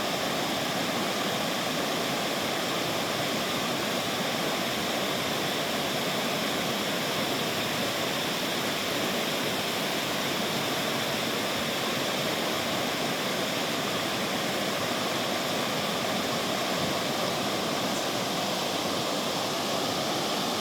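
River water rushing steadily over its bed, an even, unbroken flow.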